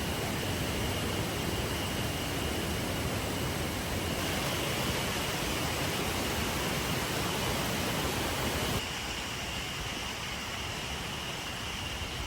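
River water rushing and flowing in a steady stream, dropping a little quieter about nine seconds in.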